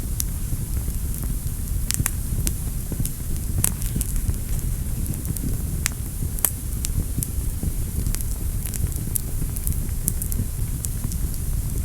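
Wood fire burning in a fireplace: a steady low rumble of flames with scattered sharp crackles and pops, several each second.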